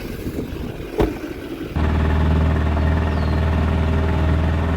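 A mixed outdoor background with a single knock about a second in, then, cutting in abruptly, an engine running steadily at idle with a low, even drone.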